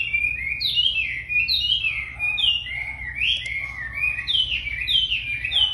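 A wambi songbird singing continuously: a rapid string of clear whistled notes, each slurring down in pitch, about two or three a second, over a steady low hum.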